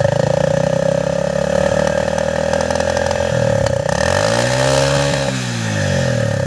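TVS Star City motorcycle's single-cylinder four-stroke engine idling at the exhaust, then revved once about halfway through, its pitch rising and falling back to idle.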